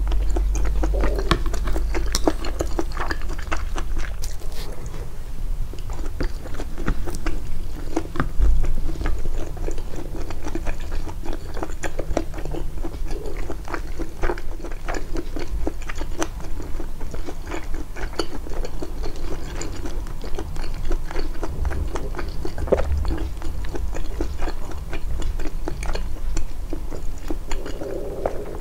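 Close-miked chewing of a meal of grilled mutton and rice: a continuous run of small wet clicks and smacks from the mouth, with occasional bites.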